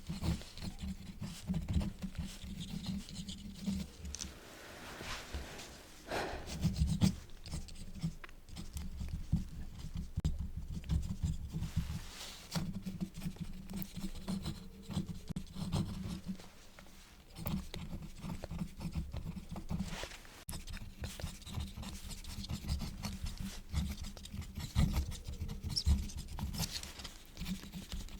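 Quill nib scratching across paper in a dense run of small scratches and taps, broken by a few smoother swishes and a short pause about two-thirds of the way through.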